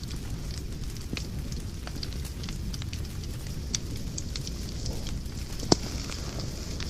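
Fire in a fireplace crackling: a steady low rumble of flames with many small pops, and one louder pop near the end.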